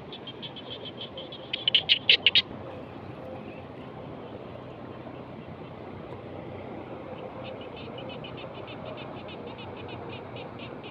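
Frogs calling in rapid trains of high, clicking pulses: a loud burst about two seconds in, then another long series from about seven seconds on, over a steady background hiss.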